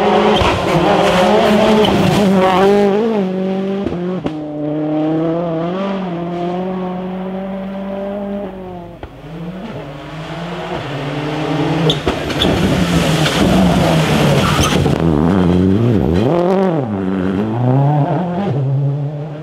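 Rally car engine run hard, its pitch climbing and dropping again and again as the driver shifts gears and lifts and brakes for corners, with tyre squeal mixed in. The engine fades briefly near the middle, then comes back loud, with tyre and road noise swelling for a few seconds.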